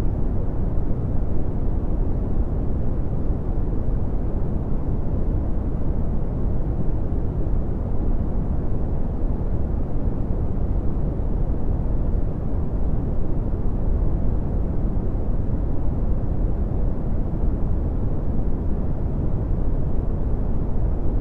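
Steady red (Brownian) noise: an even, deep rushing hiss, strongest in the bass and dull in the treble.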